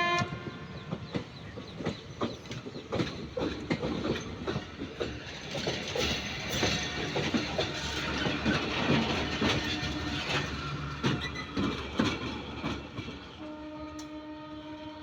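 A passing train's wheels clattering over rail joints, a dense irregular clacking and rattling, just after a loud train horn blast cuts off at the start. Near the end a fainter steady train horn sounds.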